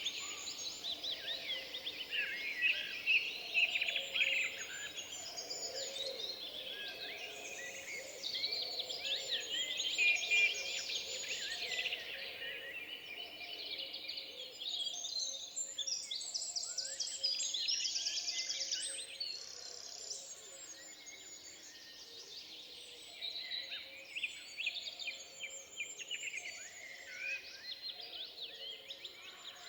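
Several songbirds singing at once in woodland, an overlapping mix of chirps, whistles and fast trills over a faint steady background.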